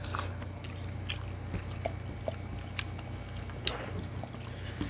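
People chewing and smacking their lips while eating stewed meat and rice by hand: scattered wet clicks and smacks, with one sharper click about three quarters of the way through, over a steady low hum.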